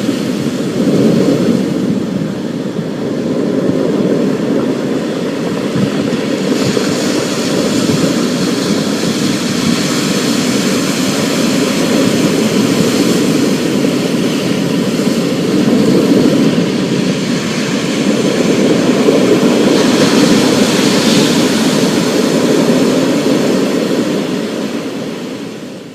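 Thunderstorm ambience: a continuous deep rumble with a fainter high hiss over it, swelling a little in places and fading down near the end.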